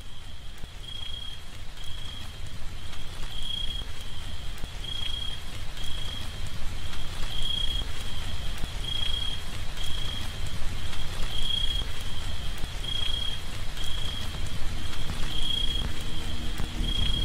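A short high electronic beep repeating about every three quarters of a second over a low rushing noise that grows slowly louder, part of the background soundtrack.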